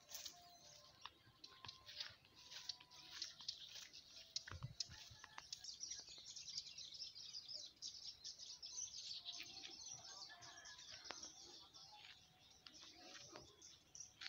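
Faint chirping of small birds, many short high calls overlapping, with a few lower whistled notes now and then.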